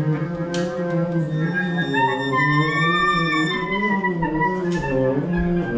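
Several acoustic instruments playing together in a loose, unmetered improvisation, with notes sliding and stepping in pitch over a held low tone, and a few short clicks or taps.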